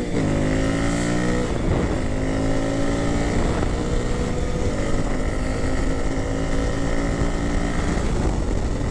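Honda CRF300L's single-cylinder engine pulling under way. Its pitch climbs, drops at a gear change about one and a half seconds in, then climbs slowly again, with another change near the end. Wind rushes over the microphone throughout.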